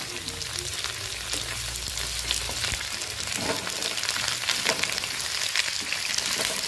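Jackfruit pieces sizzling and crackling in hot oil in a kadhai, stirred and turned with a spatula. The pieces are near the end of frying and have turned golden brown.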